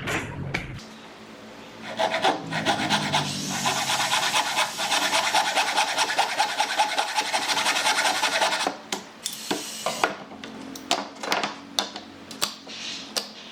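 A hand tool rubbing rapidly back and forth over wood, a dense scraping rasp that starts about two seconds in and stops near nine seconds, followed by scattered light taps and knocks.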